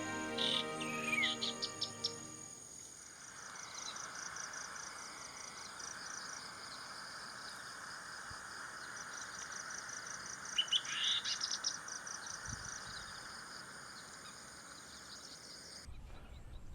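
Background music fades out in the first couple of seconds and gives way to marsh ambience: a steady insect hiss with rapid high trills. Over it come short whistled calls of lesser whistling ducks, most loudly in a cluster just before the middle.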